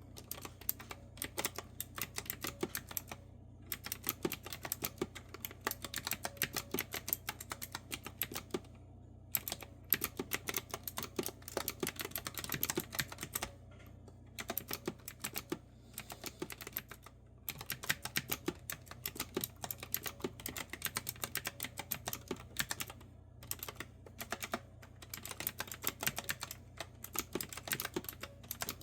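Continuous typing on a clicky retro-style mechanical keyboard with round keycaps: quick runs of crisp keystroke clicks, broken by short pauses of under a second, over a faint steady low hum.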